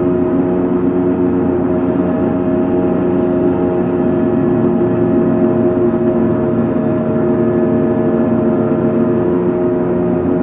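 Coal-carrier ship's engine-room machinery running steadily: a loud, even drone with a constant hum that holds the same pitch throughout.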